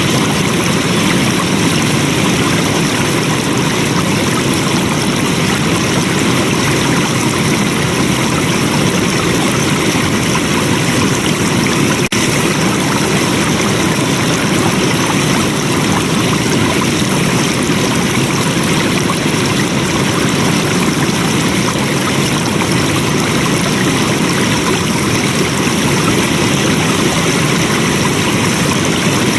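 Flowing water rushing steadily and evenly, with no change in strength.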